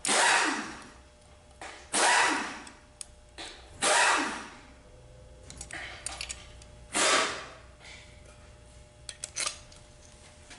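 Hand work on a transmission valve body: four sharp bursts of noise about two seconds apart, each fading over about half a second, with light metal clicks between them.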